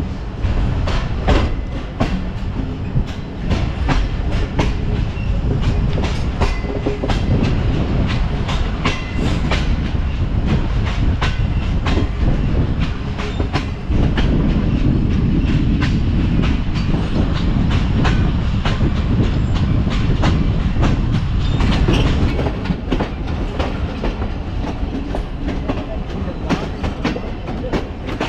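Passenger train running along the track: a steady low rumble with the clickety-clack of wheels over rail joints, louder for several seconds in the middle.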